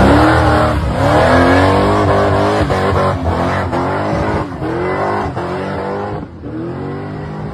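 LS-swapped V8 engines in G-body cars revving hard, the engine note climbing in pitch and dropping again about once a second, over and over.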